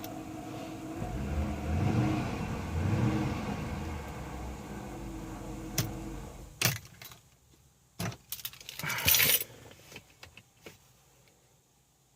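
2013 Dodge Durango R/T's 5.7 HEMI V8 running, revving up twice, then cutting off abruptly about six and a half seconds in, followed by a few clicks and a brief jangle. This is typical of the stalling and no-start trouble that the owner traced to a faulty fuel pump relay.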